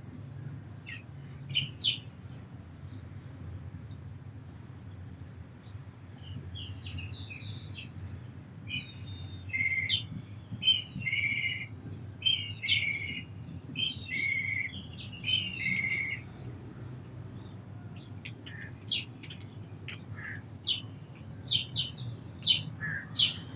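Sparrows chirping: many short, high chirps throughout, with a louder run of about six repeated lower notes in the middle, over a steady low background rumble.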